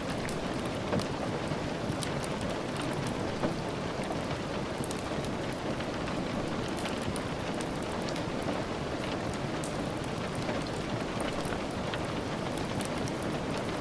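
Steady rain falling with a constant hiss, with scattered small crackles and ticks from a wood fire mixed in.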